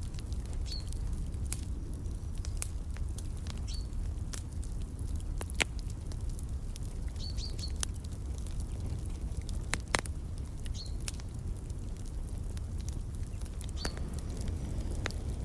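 Wood fire crackling with irregular pops, two sharper ones about six and ten seconds in, over a steady low rumble. A small bird gives short high chirps every two or three seconds.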